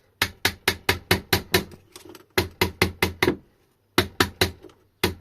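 Rapid tapping on the cast aluminium side cover of a Sur Ron electric motor to loosen it off the motor body: sharp knocks about four a second, in four runs with short pauses between.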